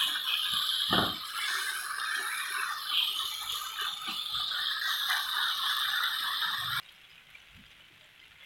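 Chicken pieces sizzling in a hot grill pan while a silicone spatula stirs them, with a knock of the spatula about a second in. The sizzle cuts off suddenly near the end.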